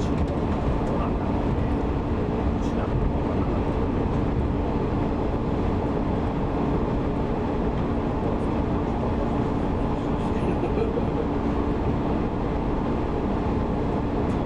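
185 series electric train running at steady speed, heard from inside the car: an even rumble of wheels and running gear with a low steady hum.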